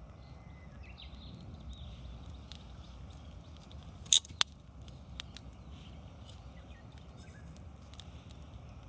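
Wood fire crackling, with scattered small clicks and two loud sharp pops close together about four seconds in, over a low steady rumble.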